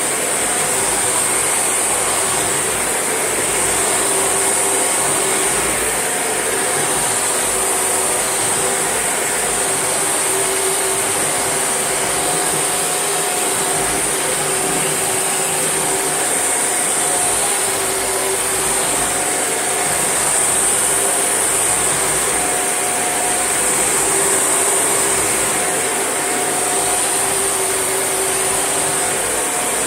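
Shark NV801UK vacuum cleaner running steadily: a high whine over a constant rush of air, with no change in level.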